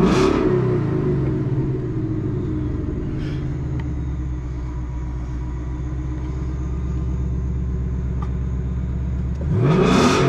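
2021 Mustang GT's 5.0 L V8, freshly fitted with a JLT cold air intake and new tune, dropping back from a throttle blip to a steady idle, then revved again near the end. The tone is a little more raspy.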